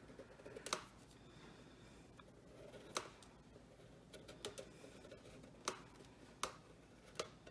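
Faint scattered clicks and taps, a handful spaced a second or more apart, from a black Sharpie marker and a painted bird feeder being handled as the feeder's edge is traced.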